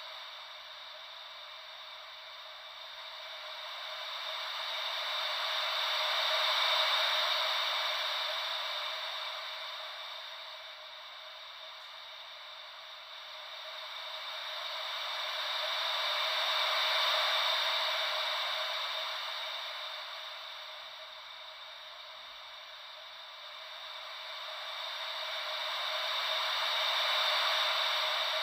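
Gentle ocean-wave white noise: a soft, even hiss that swells and fades slowly about every ten seconds, three swells in all.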